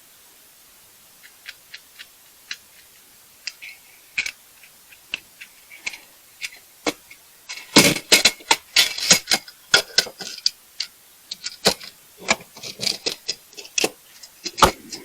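Hard objects being handled: irregular clicks and clattering knocks, sparse at first and much busier and louder from about halfway through.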